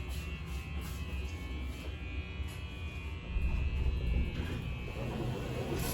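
Steady low electrical hum, a little louder about three seconds in, with faint background music.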